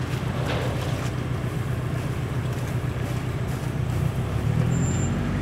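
Motor vehicle engine running with a steady low hum; its pitch steps up about four and a half seconds in.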